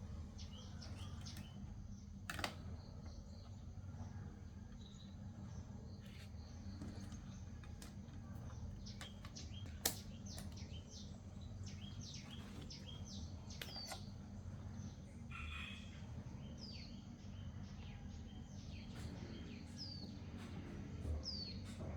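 Small birds chirping now and then in short, falling chirps over a steady low hum, with two sharp clicks, the louder one about ten seconds in.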